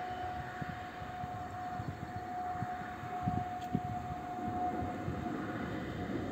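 Distant passenger train behind an electric locomotive running along the line, a steady high whine over a low, uneven rumble with a few thumps.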